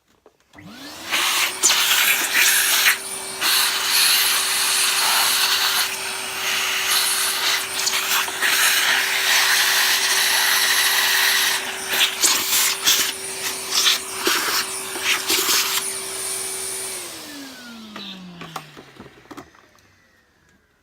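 A vacuum cleaner is switched on, its motor spinning up to a steady whine under a loud suction hiss with scattered knocks and scrapes. About seventeen seconds in it is switched off and the motor runs down, its pitch falling.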